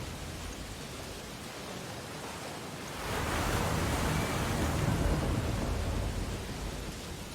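Ocean surf on a beach: a steady wash of water, with one wave breaking about three seconds in that swells louder and then fades away over a few seconds.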